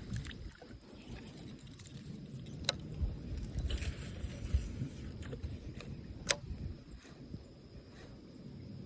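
Light clinking and clicking of fishing gear handled in a kayak, with two sharp clicks, one about a third of the way in and one about two-thirds in, over a faint low rumble.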